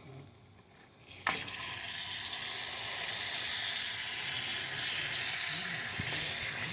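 A sharp click about a second in, then a ham steak sizzling steadily on a grill.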